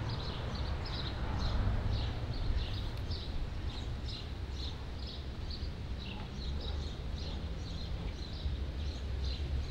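Small birds chirping outdoors: short high chirps, a couple a second, over a steady low background rumble.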